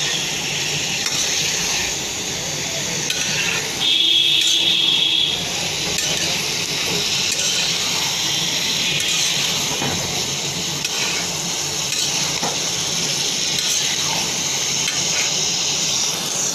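Liver and potato pieces sizzling as they fry in oil in a pan, with a spatula stirring and scraping through them. About four seconds in, a high-pitched tone sounds for about a second and a half.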